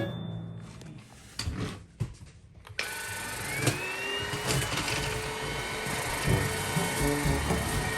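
ONSON cordless stick vacuum cleaner's motor starting up about three seconds in, with a short rising whine that levels off, then running steadily.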